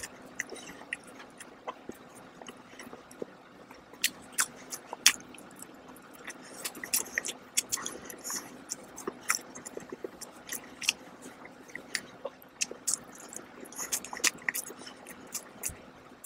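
Close-miked chewing of a soft iced donut: irregular wet mouth clicks and smacks.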